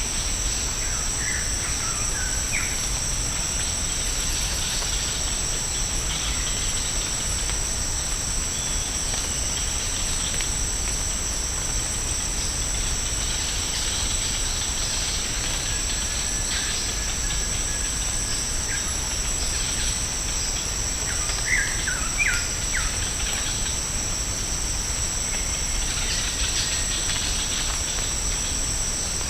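Rainforest insects keep up a steady, high-pitched drone on two pitches. A bird gives short chirps twice, briefly about a second in and again near the end.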